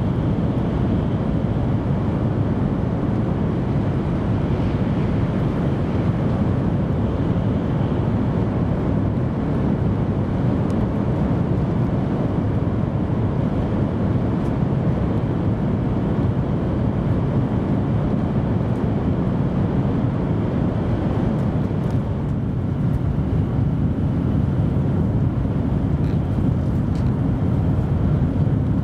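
Steady interior running noise of an N700 series Shinkansen at high speed, heard from inside the passenger cabin: a deep rumble of wheels on rail and air rushing past the body, with the train in a tunnel for most of the time.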